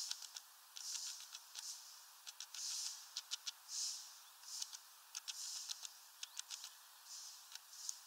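Faint, high-pitched small-bird chirps mixed with quick clicking call notes, coming irregularly every half second or so.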